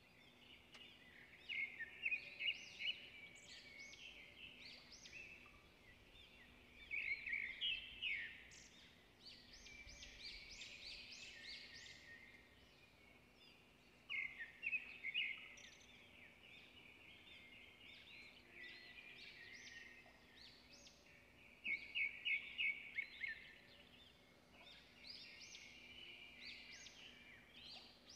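Birds chirping and trilling in high, rapid calls, with louder clusters of chirps about every six or seven seconds.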